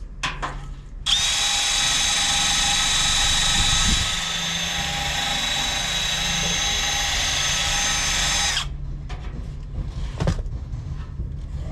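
Power drill running steadily for about seven and a half seconds with a high whine, dropping a little in level about four seconds in. A few light clicks and a knock follow after it stops.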